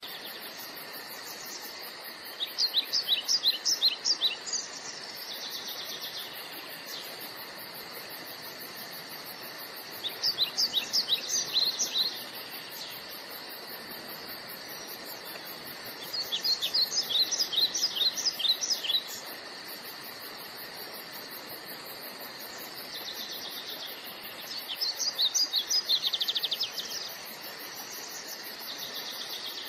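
A songbird singing bursts of rapid, high chirping notes, each burst lasting two to four seconds and repeated about every six or seven seconds, over a steady background hiss.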